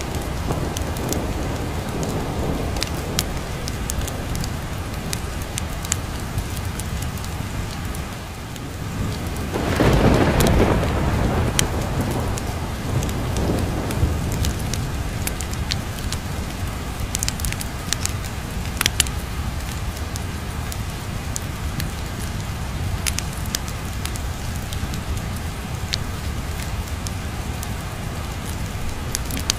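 Steady heavy rain, with a roll of thunder swelling about ten seconds in and fading over a few seconds. Scattered sharp crackles and clicks run through it.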